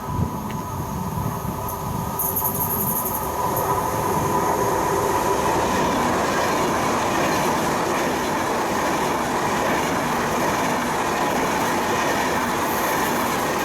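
Passenger train running along the track, growing louder over the first few seconds and then holding steady. Brief high wheel squeal comes in about two seconds in and again near the end.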